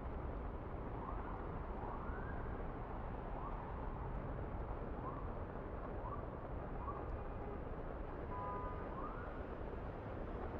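A steady low rush of noise with an emergency vehicle siren faint and far off, its wail rising and falling several times. A short horn-like tone sounds near the end.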